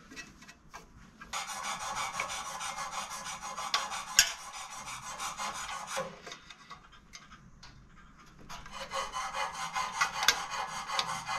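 Rapid rasping scrapes made by hand in two long bouts, the first starting about a second in and stopping about six seconds in, the second starting again near the end, with a few sharp ticks among them.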